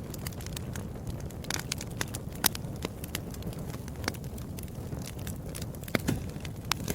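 Wood fire burning in a fireplace: a steady low rush of flames with irregular sharp crackles and pops, a few louder snaps scattered through.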